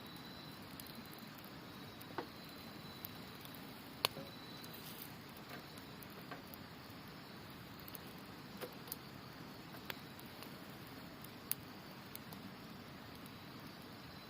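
Wood campfire crackling, with scattered sharp pops every second or two, the loudest about four seconds in. Beneath it runs the steady rush of a river and a faint high insect trill.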